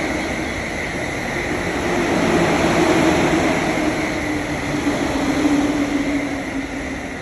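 Electric commuter train pulling in alongside the platform and slowing, with a steady rolling and rumbling noise and a motor whine that sinks a little in pitch as it brakes. The noise fades toward the end as it comes to a stop.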